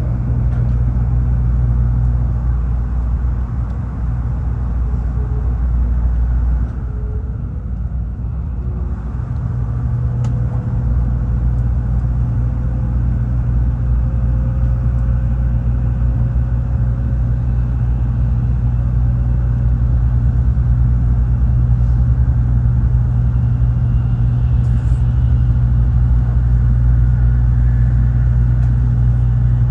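Steady low rumble of a Tokaido Shinkansen train running at speed, heard from inside the passenger cabin. About seven seconds in, the rumble drops and thins for a couple of seconds, then comes back.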